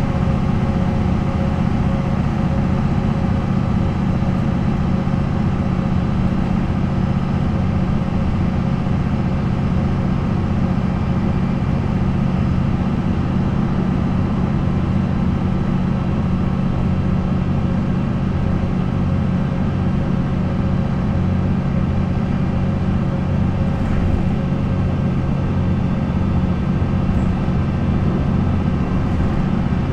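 MAN NL 263 city bus with its MAN D28 diesel engine running steadily at an even pitch, without revving up or down.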